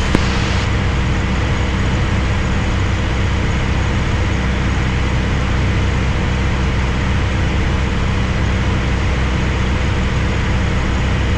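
Steady drone of a Piper Archer's four-cylinder Lycoming engine and propeller at constant power, heard from inside the cabin. A faint upper hiss drops away about half a second in, and the drone holds unchanged after that.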